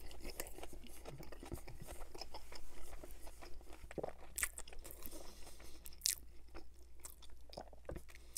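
Close-miked chewing of a bite of Whopper burger, with scattered small crunches and wet mouth clicks.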